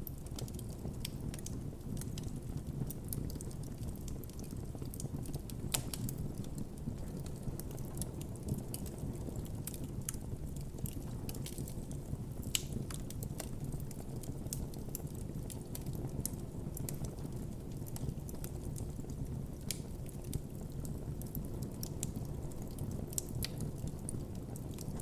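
Wood campfire crackling: irregular small snaps and pops over a steady low rush, with a few sharper pops, one about six seconds in and one about twelve seconds in.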